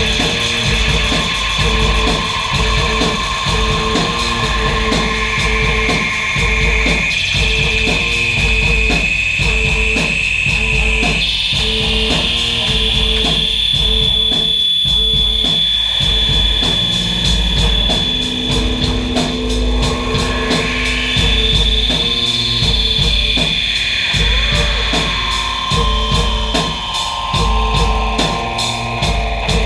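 Noise music: dense, loud layered tones over a fast pulsing low beat, with high tones that step up in pitch, one gliding up steeply about twenty seconds in and another sliding back down.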